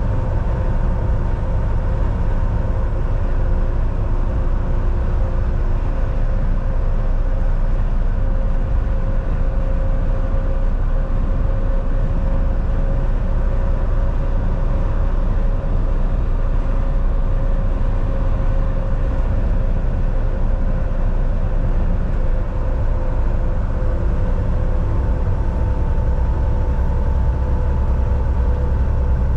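Volvo VNL 760 semi truck driving at a steady pace, heard from the driver's seat: a constant low engine drone and road rumble with a faint steady whine.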